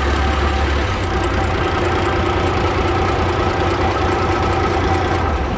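Sand-pumping boat's engine running steadily, driving the sand pump, a loud continuous hum with a deep low drone.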